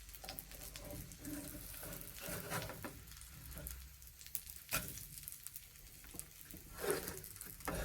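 Crumbed chicken frying in a pan: a quiet, steady sizzle with scattered crackles, and a couple of sharper pops about five and seven seconds in.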